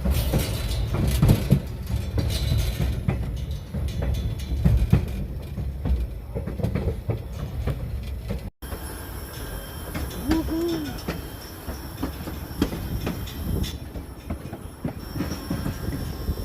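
White Pass & Yukon Route train running on the rails: a steady low rumble with irregular clicking and knocking of wheels over the track. The sound cuts off abruptly about halfway through and resumes, and a brief rising-and-falling tone is heard about two seconds after the cut.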